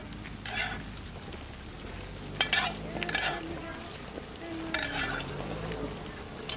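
A utensil stirring and scraping in a cooking pan, in about five separate strokes over a low steady background.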